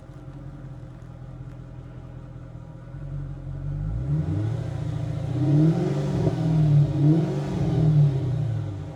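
Mercedes-Benz SL500 V8 engine and exhaust idling, then blipped several times from about halfway through, the note rising and falling with each rev.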